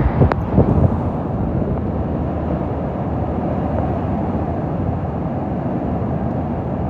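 Hurricane Milton's strong wind blowing across the phone's microphone, a steady rushing noise, with a short click just after the start.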